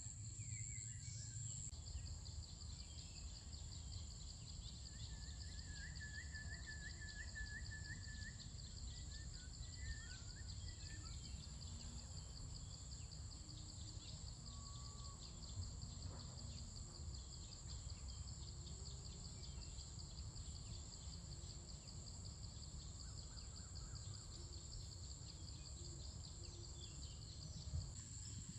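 A steady high-pitched chorus of crickets and other insects, one of them chirping in a fast pulse. A bird gives a short trill about five seconds in. A low rumbling background noise runs underneath.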